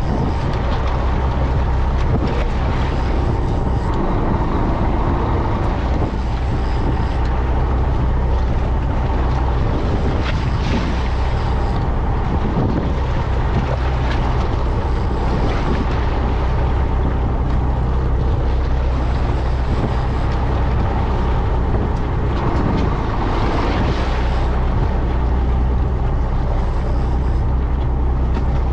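Fishing boat's engine running steadily, a constant low hum, with the wash of water and wind over it.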